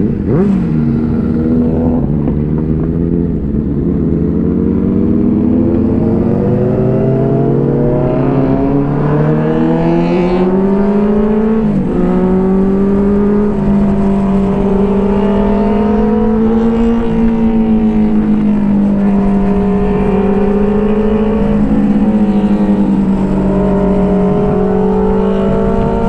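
Inline-four superbike engine accelerating hard, its pitch climbing steadily, then dropping sharply at a gear change about halfway through and holding high on the throttle, with smaller dips at later shifts.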